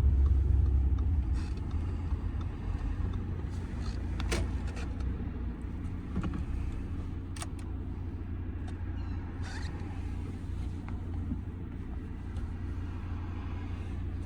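Low, steady rumble of an Audi A6's 2.0 TDI four-cylinder diesel engine and road noise heard inside the cabin, easing off over the first couple of seconds as the car slows, with a few short clicks.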